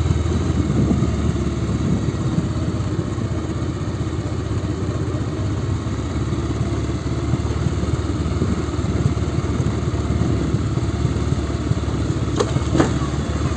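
Bajaj Pulsar motorcycle engine running steadily, with road noise, while the bike is ridden down a steep road. Two short knocks come near the end.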